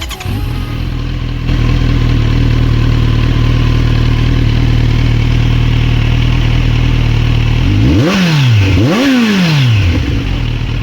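Kawasaki Ninja 1100SX inline-four running through an aftermarket barrel slip-on exhaust. It idles steadily, then near the end gets two quick throttle blips, each rising and falling in pitch, before dropping back to idle.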